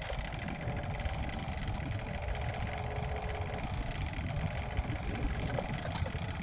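Heavy excavating machinery's engine running steadily with a low rumble, with a sharp click about six seconds in.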